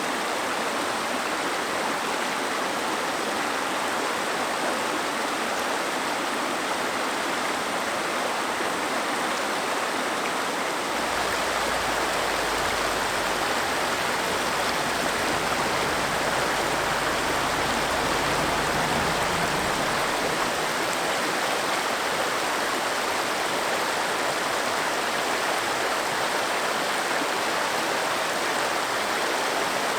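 Waterfall and river cascades running: a steady rush of falling water. A deeper low rumble joins about a third of the way in and fades again just past the middle.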